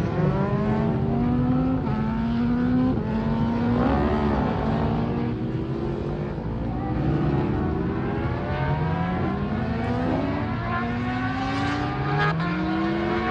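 Superbike engines accelerating hard through the gears. The engine note climbs, drops at each gear change and climbs again, over and over.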